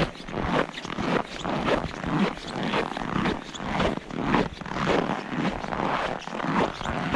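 Boots crunching in snow with each step, a steady walking rhythm of short, regular crunches.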